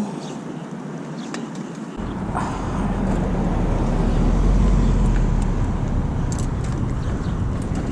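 Road traffic: a motor vehicle passes, its low rumble building about two seconds in to a peak around the middle and then slowly fading over a steady background of street noise.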